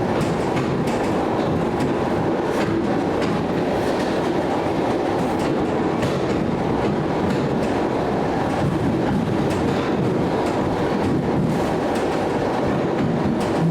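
Train running steadily along the track, a continuous rumble with the wheels clicking over rail joints.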